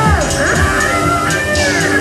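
Rock band playing with guitar, bass and drums; a lead line slides down in pitch at the start, then bends and holds.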